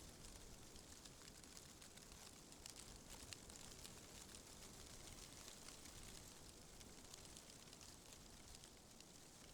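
Faint rustling of tree leaves in the wind: a soft, steady hiss flecked with many tiny crackles.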